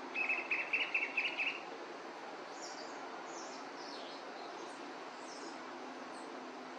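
Songbirds calling: a quick run of about eight chattering notes in the first second and a half, then several fainter, thin, high chirps. A steady low background hum runs underneath.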